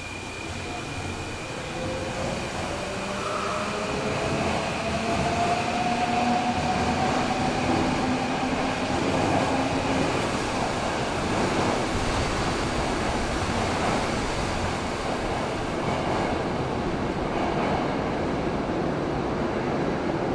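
Electric commuter train pulling out of an underground station. The traction motors' whine rises in pitch over the first ten seconds or so as it accelerates, while the rumble of wheels on rail grows louder and then holds steady.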